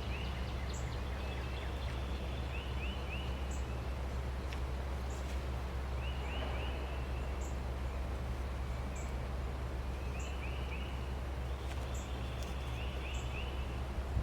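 Outdoor ambience: small birds chirping in quick groups of three or four notes every couple of seconds, over a steady low rumble.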